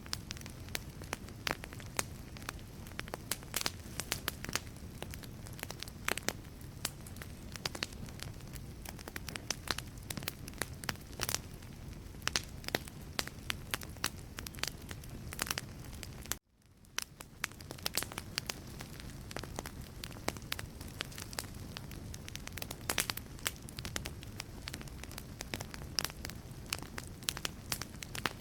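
Wood fire burning in a fireplace: logs crackling with frequent sharp pops over a steady low rumble. About sixteen seconds in, the sound cuts out abruptly and fades back in over a second or so.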